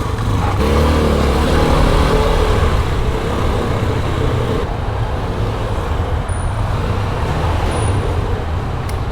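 A motor vehicle engine running close by, its pitch shifting during the first couple of seconds, then settling into a steady rumble with road noise.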